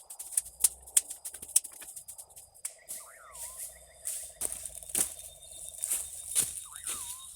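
Dry fallen branches cracking and snapping, with rustling in the leaf litter, as firewood is gathered by hand: a run of sharp cracks. A bird gives a short swooping call twice.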